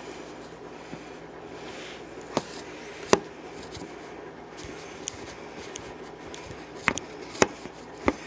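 Kitchen knife cutting tomatoes on a cutting board: a handful of sharp, irregular knocks as the blade meets the board, the loudest about three seconds in, over a steady faint background hum.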